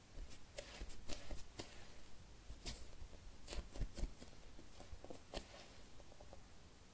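Fingers squeezing and handling a soft foam squishy toy: an irregular run of short soft crackles and rustles that dies away near the end.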